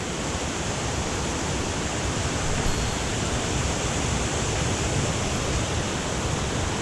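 Mountain stream water rushing over rocks: a steady, even noise of flowing water.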